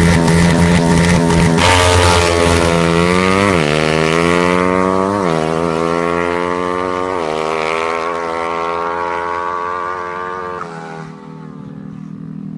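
Drag-racing motorcycle engine running hard, its pitch climbing and dropping back three times as if through gear changes, then fading away near the end.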